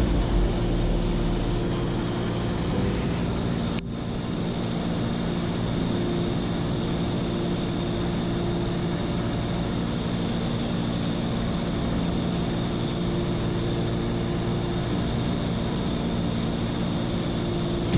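Seaplane engine and propeller droning steadily at a constant pitch, with a brief break about four seconds in.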